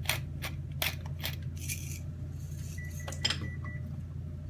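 Light, sharp clinks and clicks of kitchen utensils against a bowl while a dressing is seasoned and mixed: a quick run of about two or three clicks a second at the start, then a few scattered clinks.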